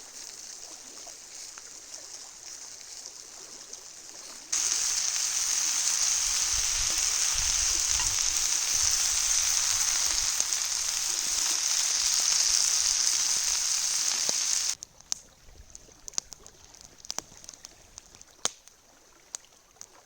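Food sizzling in a cast iron pan over a campfire: a loud, even sizzle starts suddenly about four seconds in and cuts off about fifteen seconds in. Fainter hiss comes before it, and scattered sharp crackles and pops follow it.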